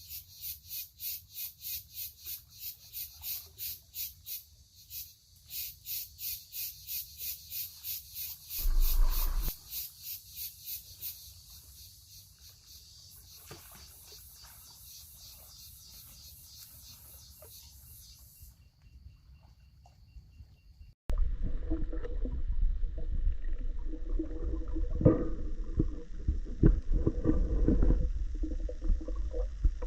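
Insects buzzing in rapid, even pulses, about two or three a second, which fade after about ten seconds. About twenty seconds in, the sound cuts abruptly to a much louder low rumble with water sloshing and irregular knocks.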